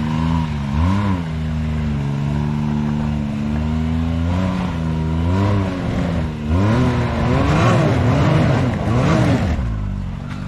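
Off-road vehicle's engine idling, then revved in short throttle blips: one about a second in, two more in the middle, then a quick run of about five revs near the end before dropping back to idle, as it works up a rock ledge.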